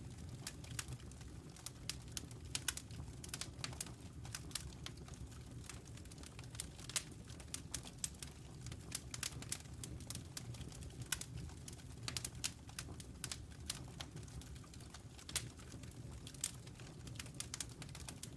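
Wood logs burning in a fireplace: irregular sharp crackles and pops, several a second, over a steady low rumble of the flames.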